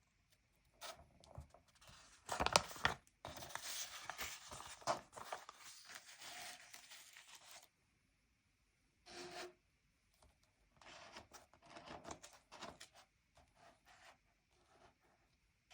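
Paper stickers being peeled off their backing sheet and rubbed down, a peeling, tearing-like sound. It runs for several seconds, then comes in shorter peels and rubs later on.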